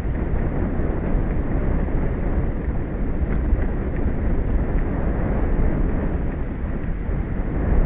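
Steady low rumble of wind and sea at an offshore tower's outdoor microphone, wind buffeting the mic over the ocean's roar.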